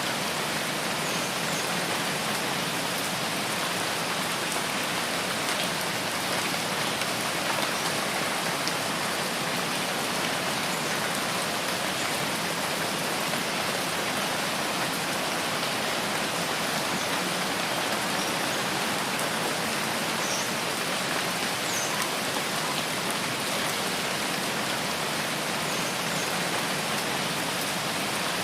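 Steady rainforest rain, an even hiss that does not let up. A few faint high chirps come through it now and then.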